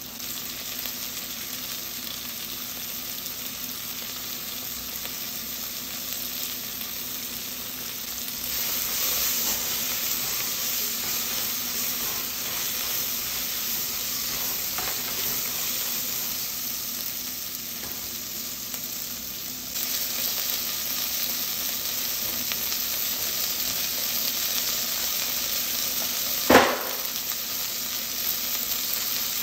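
Chopped bell peppers and onion sizzling in oil in a nonstick saucepan while being stirred with a spoon; the sizzle grows louder about a third of the way in and again past the middle. A single sharp knock near the end.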